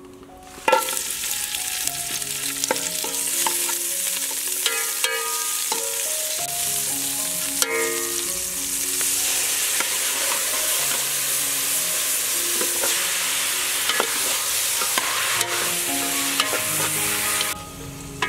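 Lemongrass, galangal, kaffir lime leaves, red chili and garlic frying in hot oil in a metal pot, sizzling loudly as a metal ladle stirs them. The sizzling starts suddenly about a second in, as the aromatics hit the oil, and cuts off near the end.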